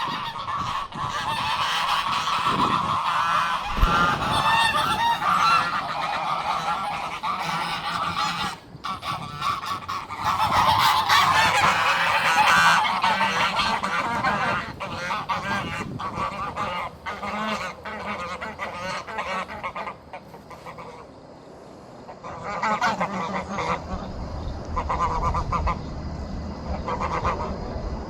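A flock of geese honking, many calling over one another. The calling is loudest about a third of the way through, eases off briefly about two-thirds in, then picks up again.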